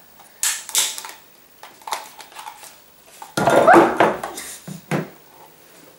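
A spoon clinking and scraping against a bowl as slime ingredients are stirred, in a run of short clicks and scrapes, with a louder, longer burst of clatter about three and a half seconds in.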